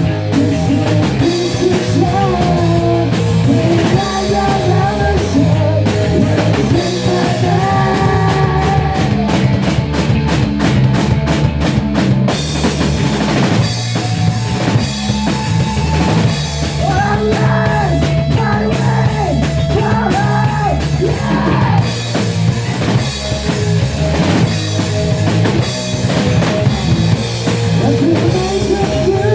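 Rock band playing: a full drum kit with a steady beat under bass and a melodic line that is probably sung.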